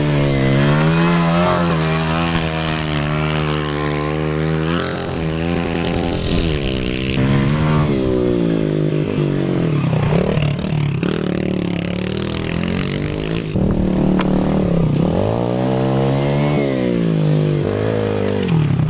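Pit bike engine being ridden hard, its pitch climbing and dropping again and again as the throttle is opened and closed.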